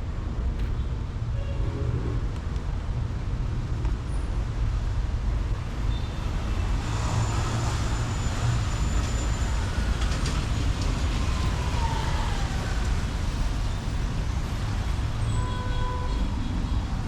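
Street traffic on a rainy city street: a steady low rumble of vehicles, with a car hissing past on the wet road about seven seconds in and a short tonal sound from a vehicle near the end.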